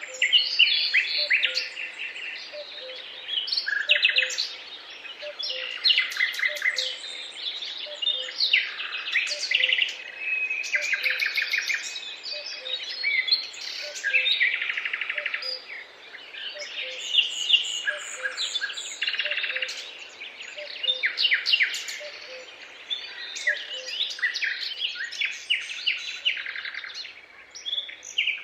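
Several songbirds singing and chirping over one another without pause, in quick trills and short phrases. Beneath them a faint low note repeats at short, even intervals.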